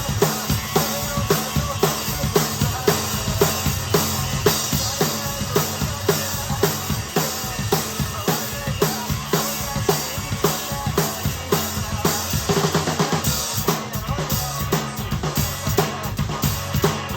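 Acoustic drum kit played in a steady rock beat over a backing track, with bass drum and snare hits and cymbals. It is a DW kit with a Sonor beech and rosewood snare, Istanbul Agop hi-hat and ride, and Paiste Signature Fast Crash cymbals.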